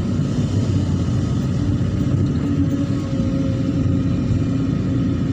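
Steady low engine rumble with a faint droning tone and no sharp events.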